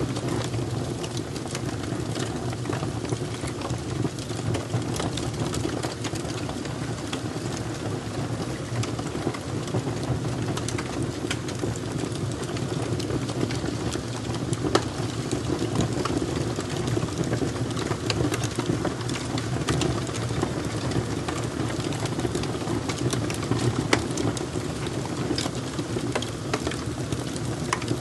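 Wood fire crackling: irregular sharp pops and snaps over a steady low rush of flames.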